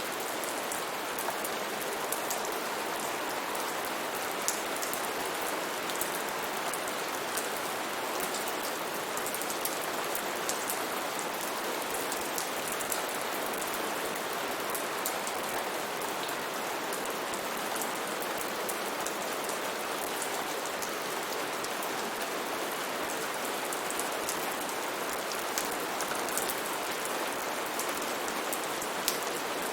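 Steady rain falling, with many individual raindrops ticking sharply on a surface over an even hiss.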